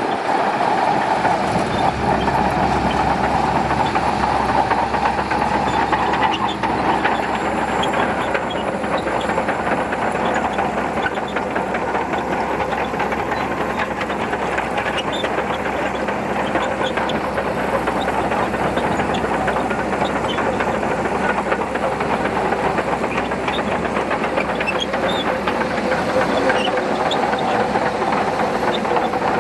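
Shantui DH17C2 crawler bulldozer working steadily, its diesel engine running under load while the steel tracks clatter and clank.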